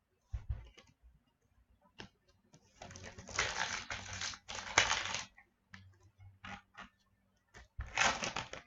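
Hockey card packs and cards being handled on a table: light taps and clicks, with two spells of crinkling, one lasting about two seconds in the middle and a shorter one near the end, as a pack wrapper is torn and worked open.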